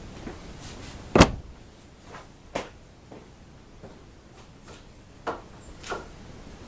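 A few short knocks and clunks of things being handled and set down, the loudest about a second in.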